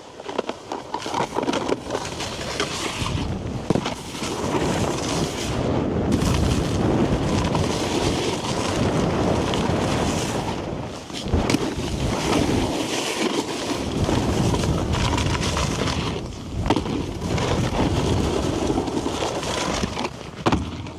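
Snowboard sliding and scraping over icy snow, the noise swelling and easing from turn to turn, with wind rumbling on the microphone.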